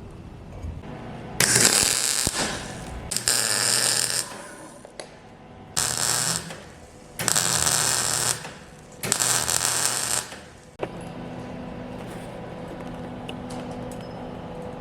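A tool or machine run in five short bursts, each one to two seconds long and starting and stopping abruptly, followed by a steady low hum.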